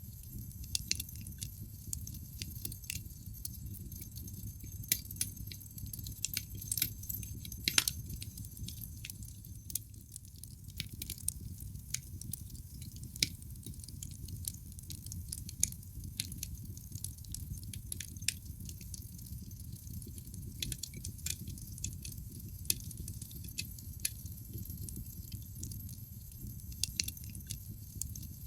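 Wood fire crackling in a fireplace: irregular sharp pops and snaps of burning logs over a steady low noise of the flames, with the loudest pop about a quarter of the way in.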